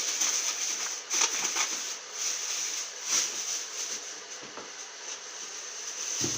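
Thin plastic bag crinkling and rustling as it is handled and opened, with irregular louder crackles.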